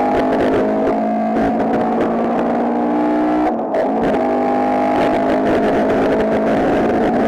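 Race car engine under hard acceleration, its revs climbing steadily, with a short break about three and a half seconds in before the revs climb again.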